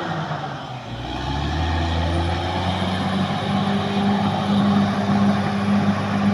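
Caterpillar D6R XL bulldozer's diesel engine running, easing off briefly about a second in and then building up again. A faint high whine comes in about two seconds in.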